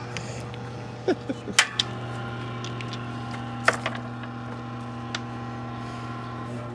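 A steady low electrical hum, with a handful of short, sharp clicks and knocks from metal parts of an old room air conditioner being handled, several of them close together in the first two seconds.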